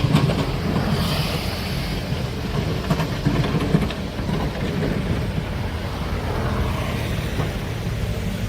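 Heavy diesel earthmoving machinery running steadily with a low drone, with scattered metallic knocks and clanks; a brief hiss comes about a second in.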